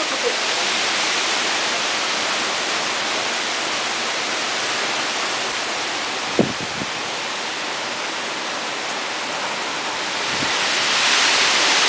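Heavy thunderstorm rain falling steadily as an even hiss, growing louder about ten seconds in as the downpour thickens. A single short knock comes about six seconds in.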